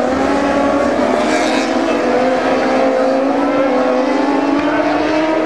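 Racing motorcycle engines running at high revs, several engine notes overlapping and rising slowly in pitch.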